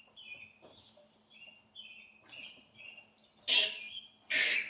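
A small bird chirping over and over in short two-note phrases, with two brief, loud, scraping noises near the end.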